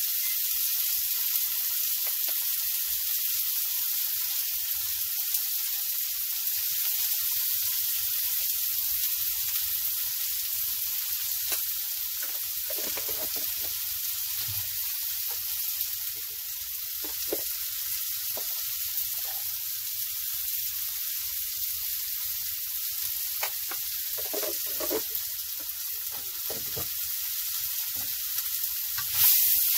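Chopped onion, tomato and lobster pieces frying in oil in a non-stick pan: a steady sizzle that gets louder for a moment near the end.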